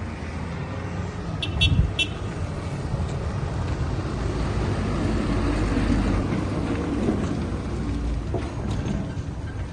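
MAN TGM 18.250 truck's diesel engine running with a steady low rumble, with a few short sharp clicks and a thump about one and a half to two seconds in.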